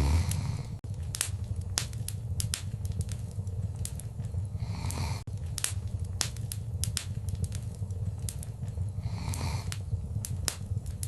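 Wood fire in a fireplace crackling, with sharp irregular pops over a steady low rumble of flames and soft hissing swells every few seconds.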